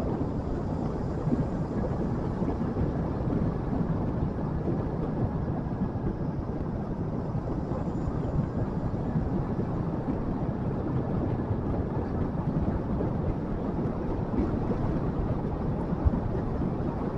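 Motorcycle on the move: steady engine and road noise mixed with wind buffeting the microphone.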